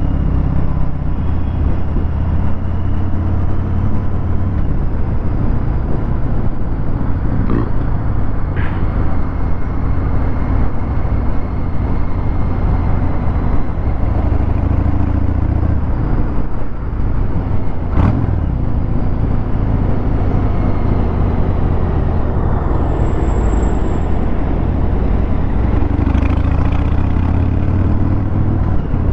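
Harley-Davidson Fat Bob 114's Milwaukee-Eight 114 V-twin running steadily through a Vance & Hines Hi-Output 2-into-1 exhaust at low speed in traffic, with a sharp click about halfway.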